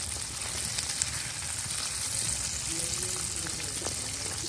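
Batter-coated chicken pieces deep-frying in hot oil: a steady sizzle with occasional small pops.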